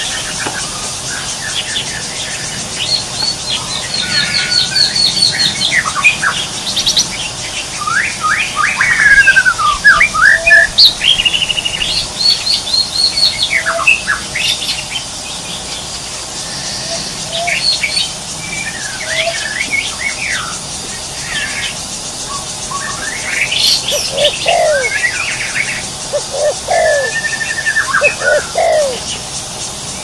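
Birds chirping and trilling, many varied high calls overlapping. In the last several seconds, shorter, lower calls repeat about once a second.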